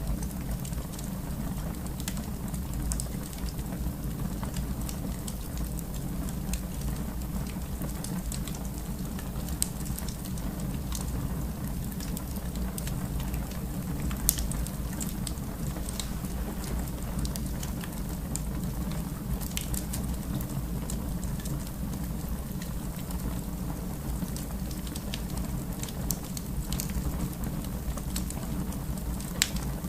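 Fire burning in a fireplace: a steady low rumble with scattered crackles and pops, a sharper pop about halfway through and another near the end.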